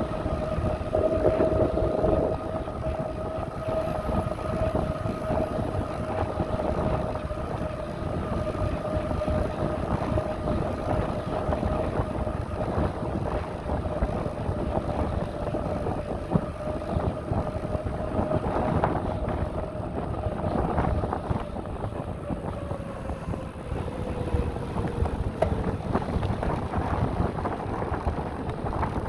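Wind buffeting the microphone and rumble from a moving bicycle, with a steady whine underneath that drops slightly in pitch near the end.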